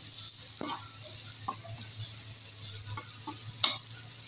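Sliced onions and garlic sizzling in hot oil in a metal wok, just starting to cook, with a spatula scraping and knocking against the pan several times as they are stirred; the sharpest knock comes near the end.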